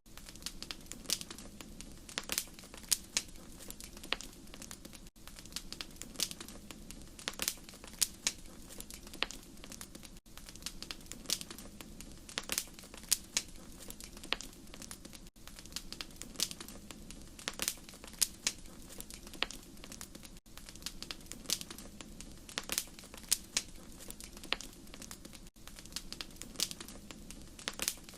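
Wood fire crackling: irregular sharp pops and snaps over a soft, steady low rush, with a brief drop-out about every five seconds.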